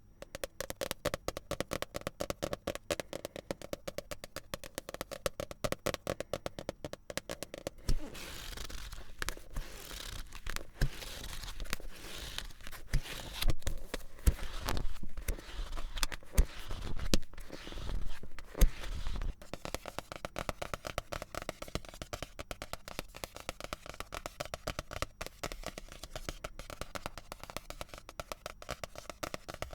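Fingernails tapping rapidly on manga volumes. About eight seconds in, this gives way to pages flipping and the books being handled, with scraping and soft thuds. Fast tapping returns at around twenty seconds.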